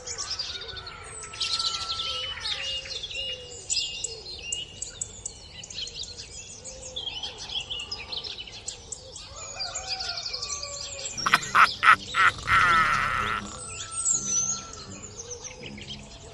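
Birds chirping and tweeting in many short calls, a farmyard ambience. About eleven seconds in, a louder rapid burst of a different animal call breaks in for a couple of seconds.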